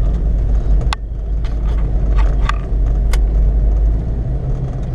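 Steady low rumble of a truck driving on a snowy road, heard from inside the cab, with a handful of short sharp ticks scattered through the middle.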